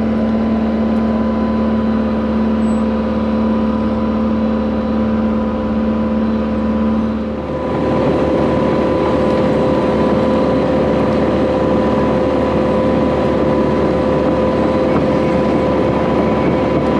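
Engine of the heavy machine pulling a water line plow, running steadily under load; about seven seconds in its steady low hum gives way to a higher, slightly louder note.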